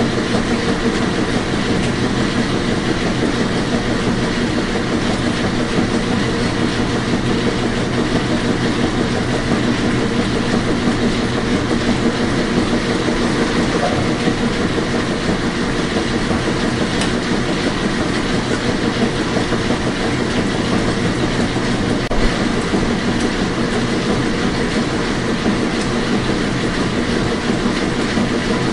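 Washing machine running: a steady, even whir with a low motor hum under it, with one faint knock about 22 seconds in.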